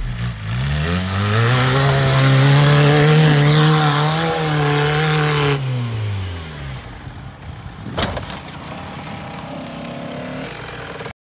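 Peugeot 106's engine revving up and held at high revs for several seconds as the car claws up a steep sandy slope, wheels spinning and throwing dirt, then the revs fall away. A single sharp knock comes about eight seconds in, and the engine then runs quietly.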